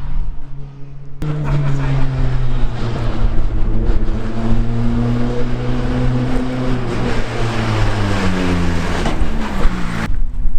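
Praga R1T race car's engine running hard, its note holding high, then dropping in pitch over the last few seconds as it comes off the throttle. The sound changes abruptly about a second in and again near the end.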